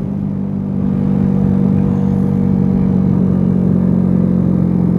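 Dongfang DF50SST scooter engine running steadily at cruising speed, getting a little louder about a second in, with wind and road noise rushing over a helmet-mounted mic.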